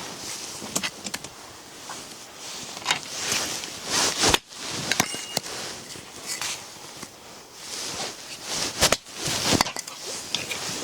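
Rustling and handling noises, swelling and fading several times, with scattered small clicks and knocks.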